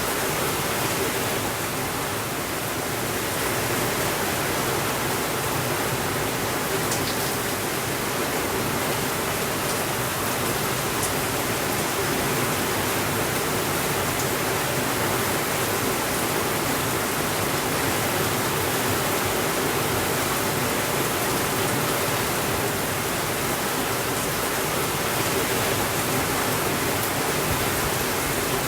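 Steady rainfall, an even hiss with a few faint ticks of drops.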